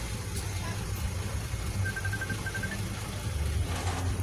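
Diesel engine of heavy earthmoving machinery running steadily, growing louder near the end. A short run of quick high pips sounds about two seconds in.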